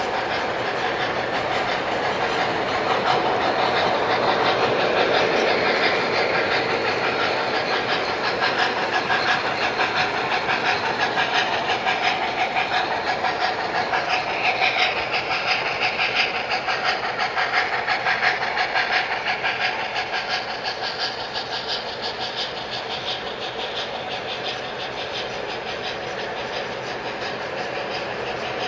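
Model trains running on a layout's track: a steady rolling clatter of wheels on rail with a motor hum. It grows louder a few seconds in and slowly fades toward the end, as if a train passes close and moves away.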